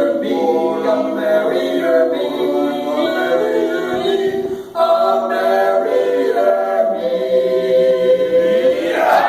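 Barbershop chorus singing a cappella in close harmony. There is a short break about four seconds in, and the song ends on a long held chord.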